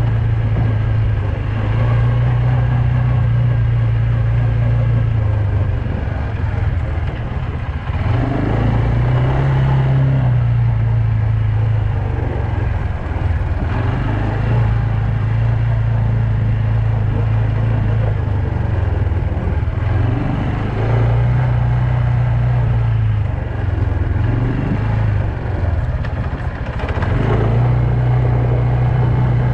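Loncin quad bike engine running while riding along, holding a steady note for long stretches. Its pitch dips and comes back up several times as the throttle is eased off and opened again.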